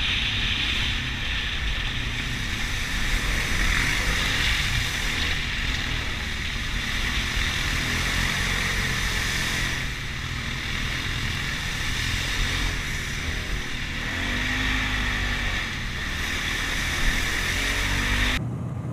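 Motorcycle on the move: steady wind rush over the rider's microphone with the engine running underneath, its pitch briefly shifting a little past the middle. It cuts off abruptly near the end.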